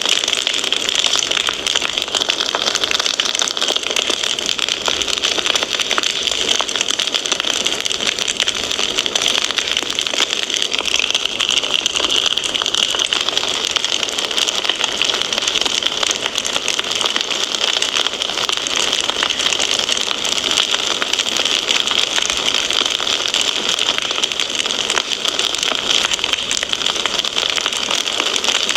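Wood fire in a fireplace crackling: a dense stream of small pops and crackles over a steady hiss, with no pauses.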